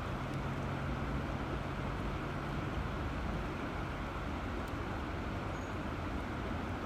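River water rushing in a continuous, steady flow, a dense even noise heavy in the lows, with a low steady hum beneath it for the first couple of seconds.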